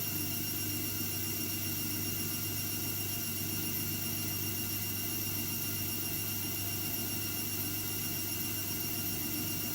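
AEG Lavamat W 1450 washing machine running at a constant speed, a low motor hum with a thin high-pitched whine over it.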